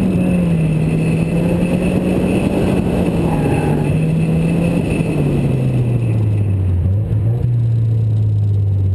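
2005 Toyota MR2 Spyder's 1.8-litre four-cylinder engine running hard through an autocross course. Its revs fall in steps, with a clear drop about five seconds in, and settle to a lower steady note as the car slows near the end.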